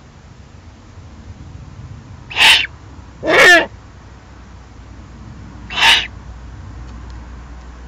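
Eurasian eagle-owl harsh, rasping calls: three short calls at about two and a half, three and a half and six seconds in. The middle one is longer and carries a wavering pitched tone.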